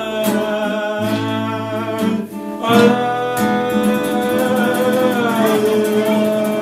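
Music: acoustic guitar playing with a singing voice holding long notes without words, closing out a song.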